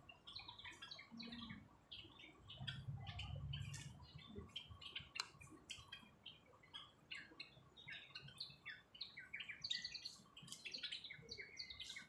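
A flock of small birds chirping, many short quick chirps overlapping all the way through, faint. A brief low rumble about three seconds in.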